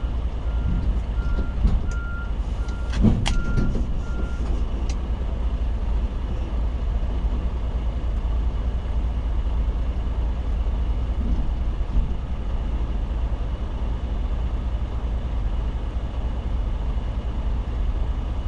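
Semi truck's diesel engine running steadily with a low rumble. A backup alarm beeps about twice a second and stops about four seconds in, with a single knock near that point.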